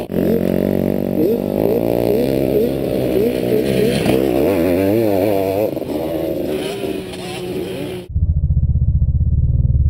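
Honda CR500's single-cylinder two-stroke engine racing past on a motocross track, its pitch rising sharply and dropping back several times as the rider works the throttle and gears, then fading a little. About eight seconds in it cuts off abruptly and a low, muffled pulsing sound takes over.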